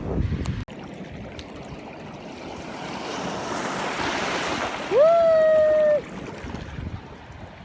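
Ocean surf washing on a beach, a wave's rush swelling to a peak about halfway through. About two-thirds of the way in comes a single held, high-pitched call with a quick rising start, lasting about a second: the loudest sound. Before that, wind on the microphone cuts off abruptly under a second in.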